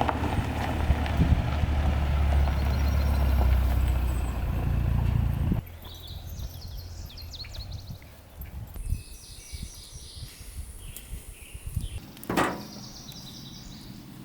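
A loud, steady low rumble that cuts off suddenly about five and a half seconds in. Then quiet forest ambience with birds chirping and a short rustle near the end.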